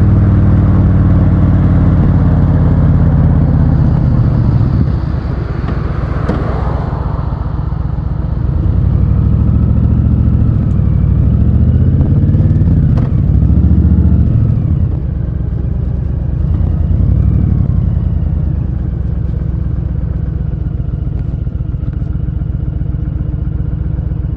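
Honda Fury's V-twin engine running while riding: loud at first, easing off about five seconds in, then picking up revs twice before settling to a steadier, lower note.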